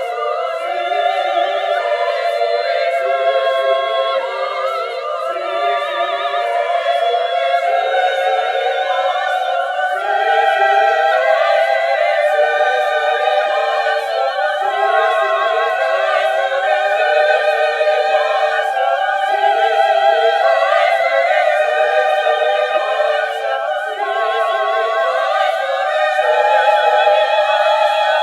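Women's choir singing in several parts, holding long notes with vibrato.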